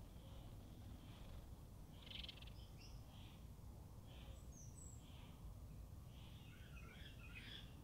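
Faint chirps of small birds at intervals, with a short trill about two seconds in and a busier run of chirping near the end, over a low background rumble.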